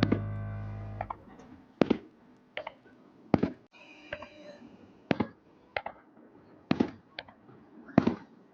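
Background music fading out in the first second, then a series of short, sharp fireworks bangs, one every second or so at an uneven pace.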